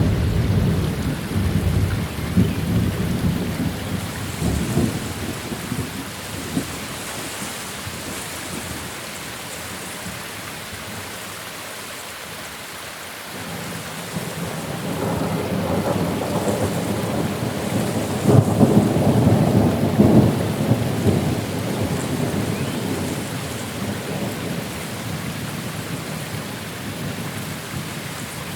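Thunderstorm: steady rain with two long rolls of thunder. The first rumbles at the start and fades over several seconds; the second builds from about halfway, is loudest a few seconds later, then dies away.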